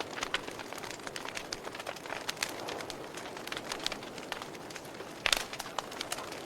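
Campfire crackling, with irregular sharp wood pops over a soft hiss and the loudest pop about five seconds in.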